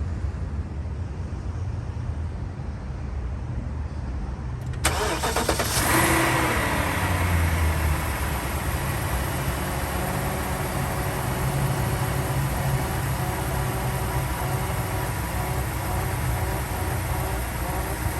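2004 BMW 745Li's 4.4-litre V8 cold-started: after a low background rumble, the starter cranks briefly about five seconds in, the engine catches and flares up, then the revs drop and it settles into a steady cold idle.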